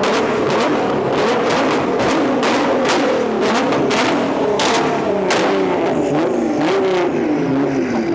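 Modified car engines revving and running at a car meet's warm-up, their pitch rising and falling, with a string of sharp, irregular cracks through the sound.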